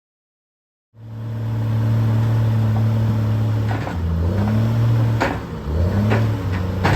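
An engine, most likely the old skidder's, running steadily and then going up and down in speed from about halfway through, with a few sharp knocks or clanks.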